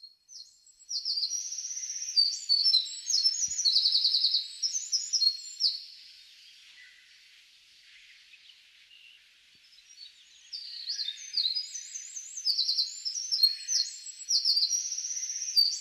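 Songbirds singing: quick high chirps and rapid trills of repeated notes, thinning out for a few seconds in the middle and then coming back busy, over a faint even hiss.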